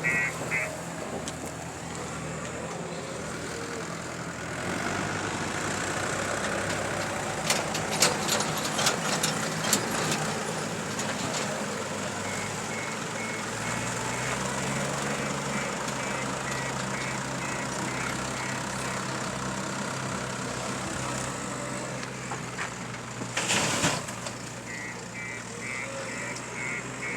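JCB 3DX backhoe loader's diesel engine running under load and revving up partway through, with runs of reversing-alarm beeps near the middle and again near the end. A burst of metallic clattering comes around eight to ten seconds in, and a single loud burst of noise comes near the end.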